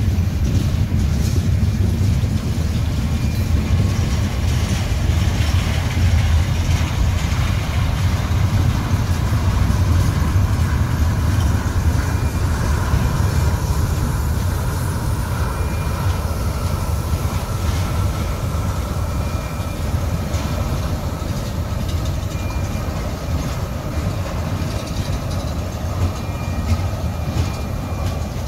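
Freight train cars, covered hoppers and tank cars, rolling past at speed: a steady low rumble of steel wheels on the rails, with faint thin high squeals from the wheels above it.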